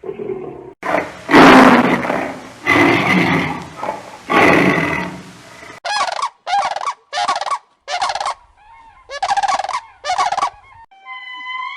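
Turkey gobbling: three long, loud, harsh calls, then six short calls about a second apart.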